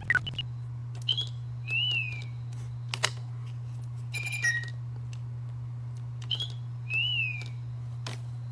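Little Live Pets My Really Real Bird electronic toy bird chirping: short chirps, a rising-and-falling whistle, a click and a trill. The same sequence repeats about every five seconds over a steady low hum.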